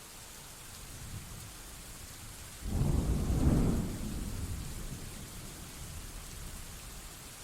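Steady rain hiss, with a thunderclap breaking in about two and a half seconds in: a sudden deep rumble that peaks within a second and rolls away over the following few seconds.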